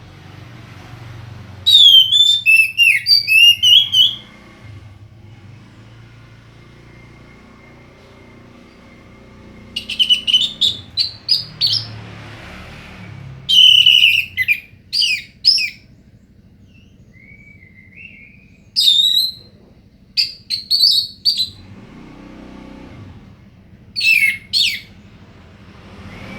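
Orange-headed thrush singing: short bursts of rapid, varied, whistled high notes, about six phrases with pauses of a few seconds between them.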